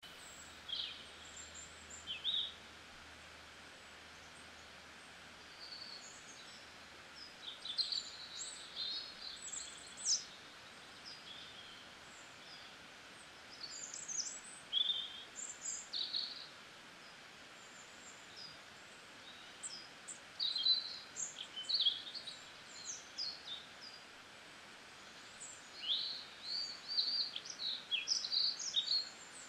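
Small songbirds chirping in short, quick calls that come in clusters, over a steady faint hiss.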